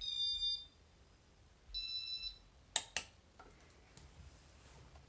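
Casablanca Panama 5 ceiling fan's Flick Mode control beeping twice, about a second and a half apart, as the fan is switched to speed 2. Two sharp clicks follow about three seconds in.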